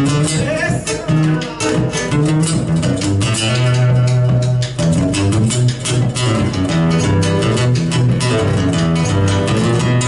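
Instrumental break in Argentine folk music: guitar and bass over a steadily beating bombo drum.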